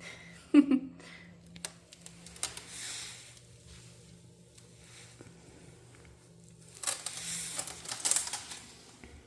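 Scratching, rustling and clicking. There is a sharp short sound about half a second in, and the loudest stretch of scratching and rustling comes about seven seconds in and lasts over a second.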